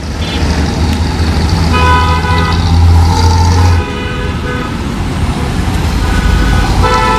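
Tata 1612 SE medium-duty diesel truck's engine running loud, with a deep rumble that drops suddenly about four seconds in. Several horn honks sound over it, some short and some held for about a second.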